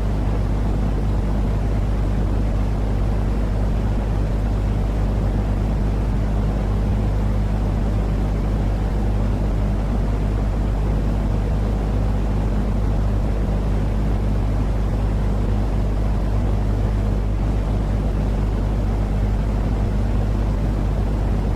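Steady, unchanging noise for baby sleep, heavy in the bass: a deep low hum under an even hiss, with no change in level.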